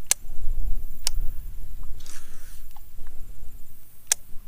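Paddle strokes swishing through shallow water as a stand-up paddleboard is paddled, with three sharp clicks and a steady low rumble.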